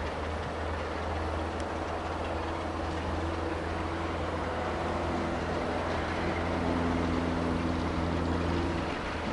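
060-DA diesel-electric locomotive's twelve-cylinder Sulzer diesel engine running under load as it pulls slowly away. It makes a low, steady drone with humming tones above it that grow louder about six seconds in and fall away just before the end.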